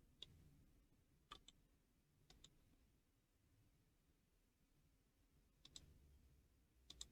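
Near silence broken by a few faint computer mouse clicks, spaced a second or more apart, with two quick clicks close together near the end.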